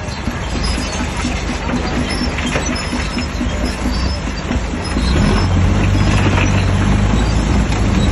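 Shantui DH17C3 bulldozer working: its diesel engine runs under load with the metallic clanking of its steel tracks. The engine grows louder and heavier about five seconds in.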